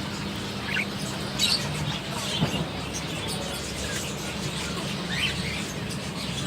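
Caged birds chirping now and then, a few short separate calls over steady market background noise with a low hum.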